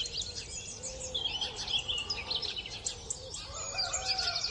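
Several birds chirping and singing at once, many short overlapping calls with some lower whistled notes.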